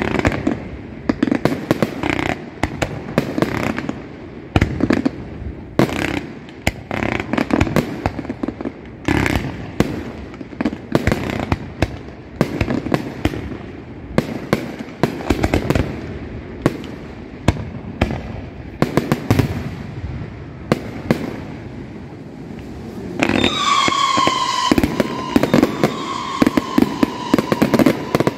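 Fireworks display: a dense run of shell bursts and bangs. Near the end a whistling firework starts, a slightly falling whistle over rapid crackling bangs.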